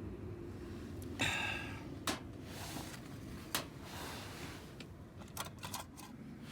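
A few sharp clicks and knocks of small objects being handled, with a brief scraping rustle about a second in and a quick cluster of clicks near the end, over a steady low background hum.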